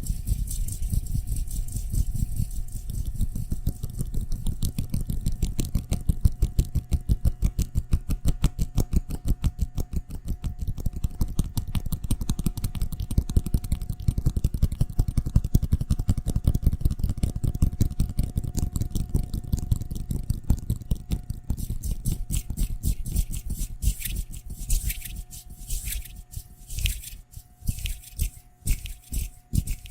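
ASMR trigger sound: fast, rhythmic scraping strokes close to the microphone over a faint steady hum. About twenty seconds in, the strokes turn sharper and hissier.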